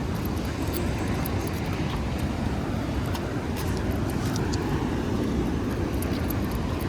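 Steady low outdoor rumble with faint light ticks scattered through it.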